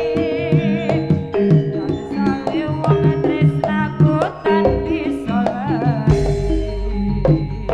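Live jaranan ensemble music: rapid hand-drum (kendang) strokes over held gong-chime tones, with a wavering melody line above. A low rumble joins about six seconds in.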